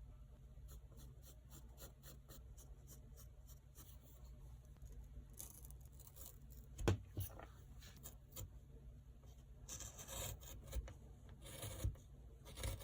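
Hand tool carving into balsa wood, hollowing out a pocket in a lure body: faint small scrapes and ticks, with a couple of sharper knocks about seven seconds in and longer stretches of scraping near the end.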